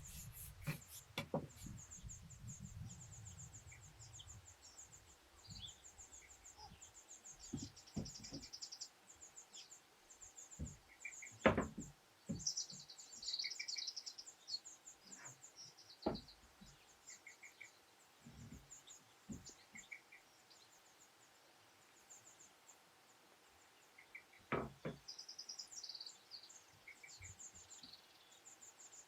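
Birds singing, with runs of short high chirps throughout, and a few sharp knocks at intervals, the loudest about eleven seconds in.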